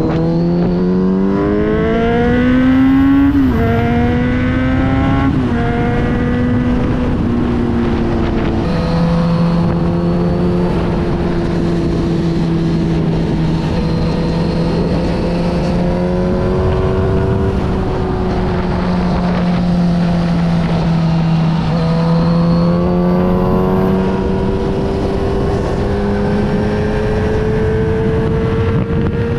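Kawasaki Z900RS's inline-four engine through a full Yoshimura exhaust, on the move. The revs climb and drop back three times in the first nine seconds as it shifts up through the gears, then hold steady at a cruise, climbing gently again near the end.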